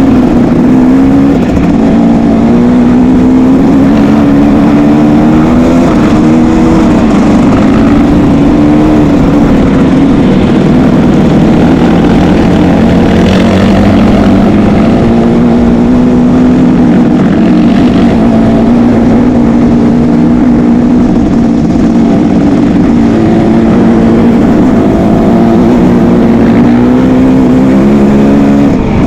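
Motocross motorcycle engines running loud and continuous, their pitch rising and falling again and again as the riders open and close the throttle.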